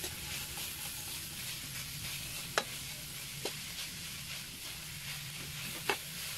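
Shredded bamboo shoots sizzling in hot oil in a pan while being stirred with a spatula: a steady frying hiss, with a few sharp clicks of the spatula against the pan, about two and a half seconds in, again a second later, and near the end.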